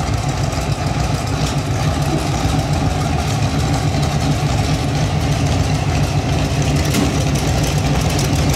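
Engine of a 1929 roadster pickup hot rod idling steadily, a loud, even low exhaust note with no revving.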